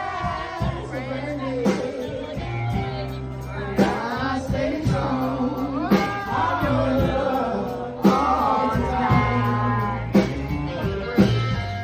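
A live band playing a song with a singer over bass and drums, the drum strikes landing about every two seconds.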